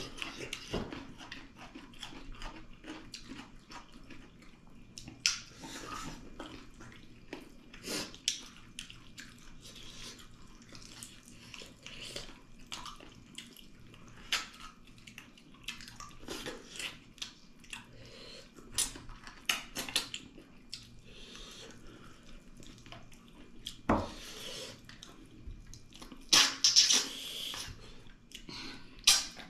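Mouth sounds of people eating pork trotters by hand: wet chewing, lip-smacking and sucking, with many short clicks scattered throughout and a louder burst about 27 seconds in.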